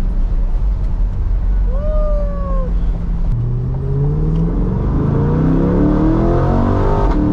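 Chevrolet C8 Corvette's 6.2-litre V8 heard from inside the cabin, running steadily at first, then accelerating hard from about three seconds in. The engine note climbs in a series of quick steps as the gearbox shifts up.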